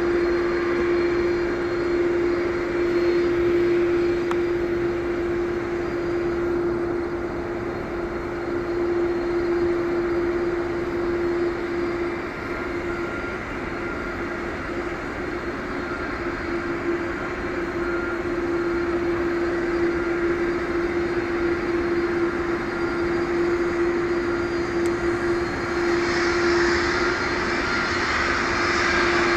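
Boeing 777-200ER airliner during pushback: its engines run with a steady whine over a broad rumble. A louder hiss builds near the end.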